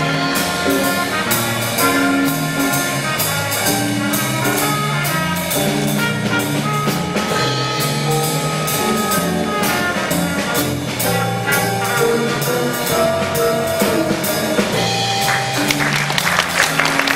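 Student concert band playing a blues march: brass, trumpets and trombones, carrying the tune over a steady drum beat.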